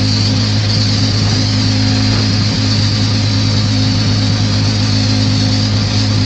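Pressure washer running steadily: a constant engine hum under the hiss of the high-pressure spray.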